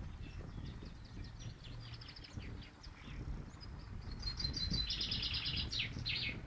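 Songbirds singing: scattered quick chirps, then a fast trill of rapidly repeated notes about four seconds in, over a low background rumble.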